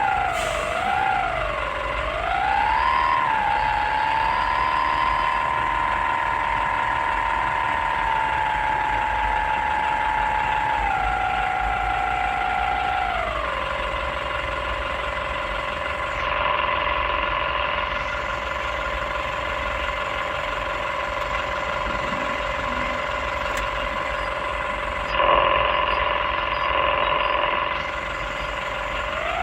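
An excavator's diesel engine runs with a steady high whine over a low rumble. The whine wavers up and down for the first few seconds, then holds steady and drops lower in two steps partway through, following the machine's engine speed and hydraulic load. There are two short heavier stretches later on.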